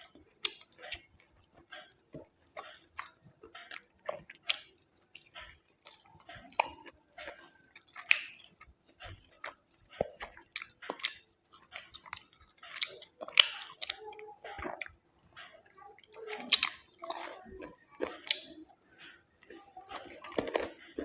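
Close-miked chewing and mouth sounds of someone eating chicken biryani with gravy: irregular wet smacks and clicks, several a second.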